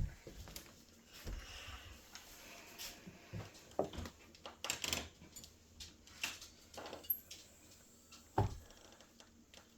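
Light clicks, taps and a few dull knocks from a hot sauce bottle being opened and handled while thick sauce is poured out.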